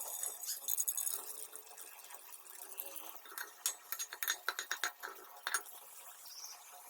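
Irregular clinks and clicks of cooking utensils over a steady hiss, clustered about a second in and again from about three to nearly six seconds in.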